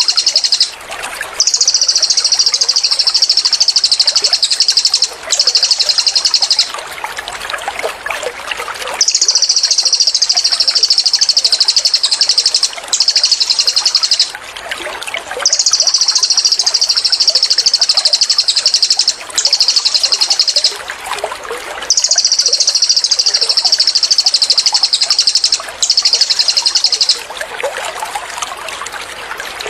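Cililin bird singing its rapid 'tembakan' song: high, fast, buzzy trills a few seconds long, repeated in close succession with brief pauses. Trickling, babbling water runs steadily underneath.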